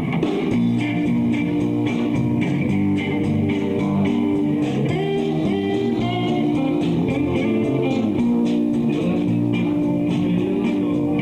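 Live rock band playing an instrumental passage: electric guitars and bass over a steady drum beat.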